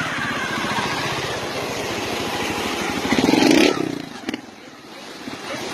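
Motocross motorcycle engine running with a rapid pulsing note, swelling to its loudest a little past halfway and then falling away quickly to a quieter level.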